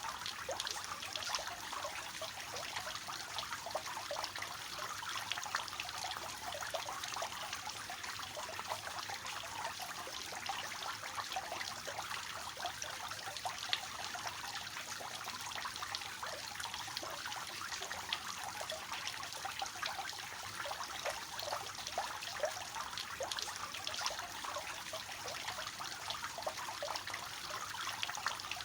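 Water falling and trickling steadily in a three-tiered fountain, a continuous light splashing that sits high and thin, without a low rumble.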